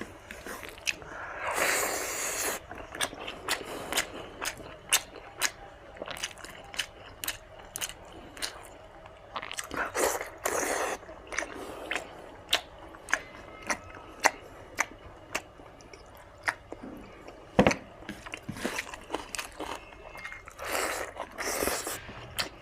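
Close-up chewing of spicy mutton fat with rice: many short, wet mouth clicks and smacks at an uneven pace, with a few longer, noisier eating sounds about two seconds in, around ten seconds and near the end.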